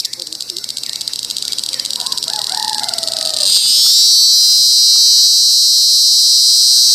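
Loud, high insect song, pulsing rapidly for about the first three and a half seconds and then settling into a steady, unbroken buzz. A few faint bird chirps sound around the middle.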